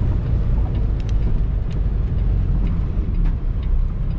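Semi truck's diesel engine and road noise heard from inside the cab while driving: a steady low rumble, with a few faint light ticks.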